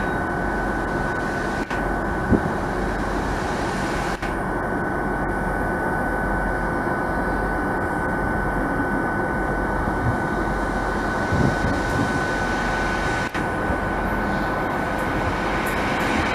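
A train running steadily: a broad, even rumble with a constant high-pitched whine over it.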